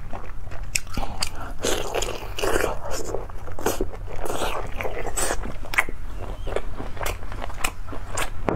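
Close-miked chewing of seafood meat dipped in sauce: wet mouth sounds with many irregular clicks and smacks.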